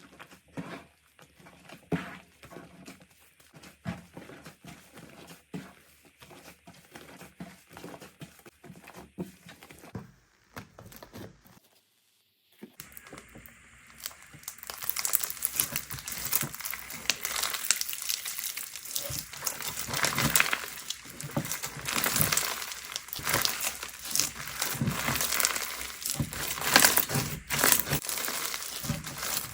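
Slime being handled and squeezed by hand. At first there are scattered sticky clicks and squishes. After a brief gap about twelve seconds in, a louder, dense crackling and crinkling follows.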